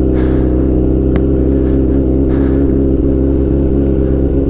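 Motorcycle engine running steadily at idle speed as the bike rolls slowly in gear, clutch fully out and no throttle applied. A single short click comes about a second in.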